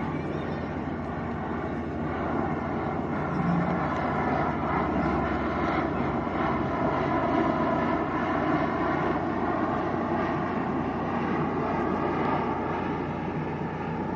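P-3 patrol aircraft's four turboprop engines droning steadily as it flies overhead, growing a little louder about two seconds in.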